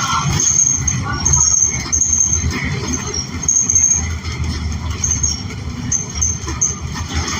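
Inside a 2014 New Flyer XN40 city bus under way: its Cummins Westport L9N natural-gas engine and road noise give a steady low rumble, with short high squeaks coming and going.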